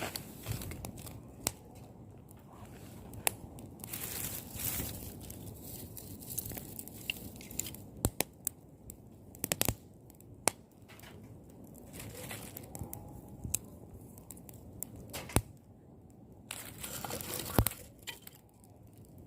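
Rustling and crinkling of something being handled, with scattered sharp clicks and taps, and two louder stretches of rustling, about four seconds in and near the end.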